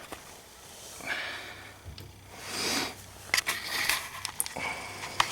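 Used engine oil running out of the Ariens snowblower's crankcase drain into a catch pan, heard as soft splashing noise. Several sharp clicks follow in the last couple of seconds.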